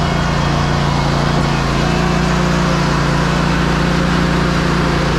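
Ready-mix concrete truck's diesel engine running steadily with a constant low drone.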